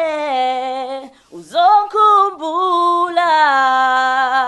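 A solo singer singing unaccompanied, holding long drawn-out notes that slide between pitches, with a short break for breath about a second in.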